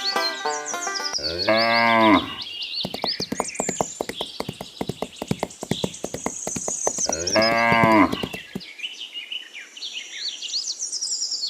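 A cow mooing twice, two long low calls about six seconds apart, with birds chirping throughout.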